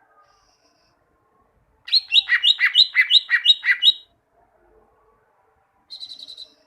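Cucak ijo (green leafbird) singing: a loud, rapid run of about seven repeated high notes lasting two seconds, then a brief, faster trill near the end.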